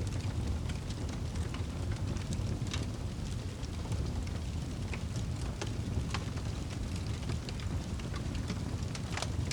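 Wood fire crackling: a steady low rumble of burning with irregular sharp pops and snaps, one louder pop near the end.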